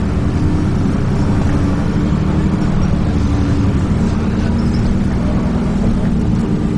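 Diesel engine of a Dennis Trident 2 double-decker bus running steadily under way, a constant low drone with road noise.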